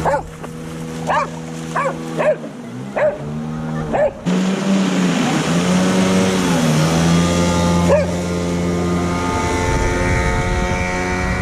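Boat motor running, its pitch rising about four seconds in as it speeds up. Over it, a dog barks several times in the first four seconds and once more near eight seconds.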